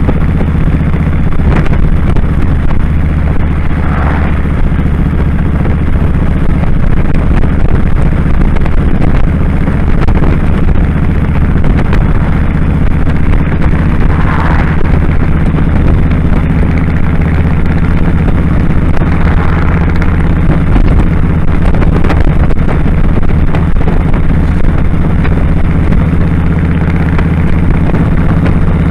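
2001 Kawasaki Drifter 1500's V-twin engine running steadily under way, with a few brief higher rushes of noise at about 4, 14 and 19 seconds in.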